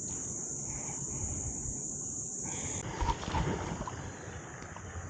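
Insects buzzing steadily in one high drone that cuts off about halfway through. Then a rushing, wind-like noise, with a brief knocking bump near the middle that is the loudest moment.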